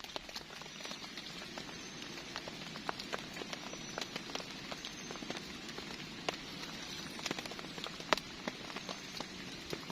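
Heavy rain falling steadily, with many separate drops striking close by as sharp taps.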